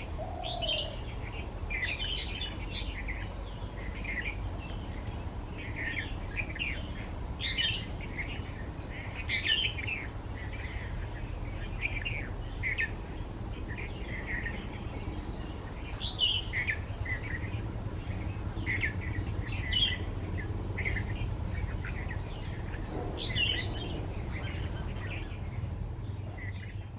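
Red-vented bulbul singing: short, bright phrases of quick notes, one every second or so, over a steady low background rumble.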